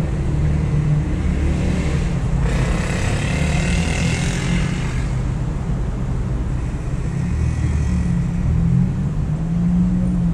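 Steady low rumble of road traffic, with a louder hiss of a vehicle passing from about two and a half to five seconds in.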